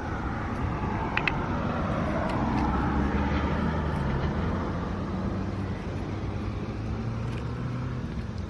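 Road traffic: a passing car's engine and tyres rise to a peak two or three seconds in, then ease off. A couple of faint clicks sound about a second in.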